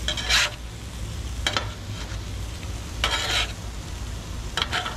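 Chicken and shrimp sizzling on a hot griddle pan, with a metal spatula scraping across the pan about four times as the chicken pieces are pushed and turned.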